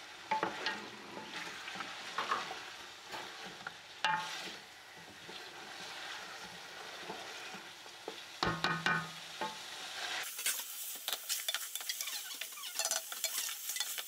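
Chicken pieces, tomatoes and onions sizzling in oil in an aluminium pot while a wooden spatula stirs and scrapes them against the pot, with scattered clicks. About ten seconds in the sizzle becomes a denser, sharper crackle.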